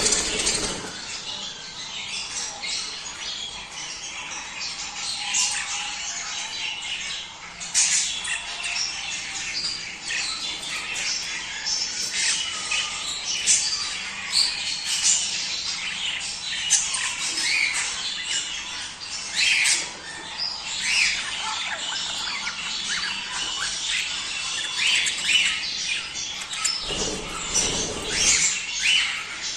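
A flock of budgerigars chattering and warbling continuously, with many overlapping squawks and short chirps. There is a brief rushing noise near the end.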